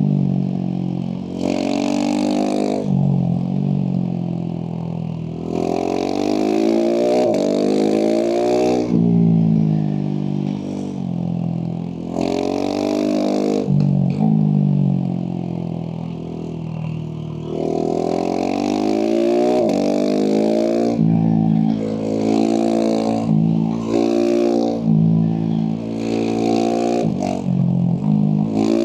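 Husqvarna 701 SM's single-cylinder engine through a Leovince slip-on exhaust under hard riding: the pitch climbs with the throttle, drops away as it shifts or rolls off, and climbs again, over and over, with quicker, shorter swings in the second half.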